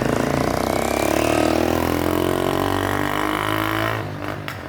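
A motor vehicle engine running loud, its pitch falling steadily for about four seconds, then dropping in level near the end.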